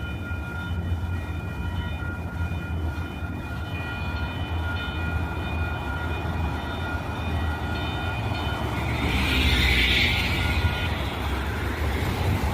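Light rail train running with a low rumble and a steady, high-pitched whine of several tones. A hiss swells up about nine seconds in, and the whine fades out soon after.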